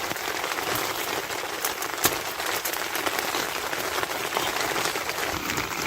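Heavy rain falling steadily, with many individual drops striking sharply.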